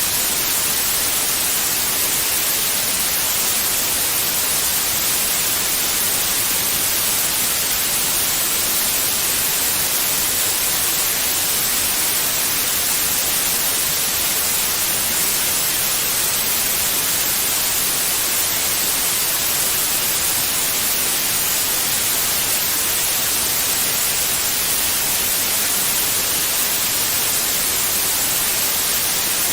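Steady white noise: an even, unbroken hiss, brightest in the high end, with no change throughout.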